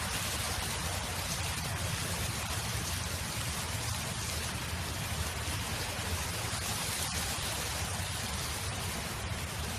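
Wind blowing steadily, an even rushing noise with a low rumble underneath and no let-up.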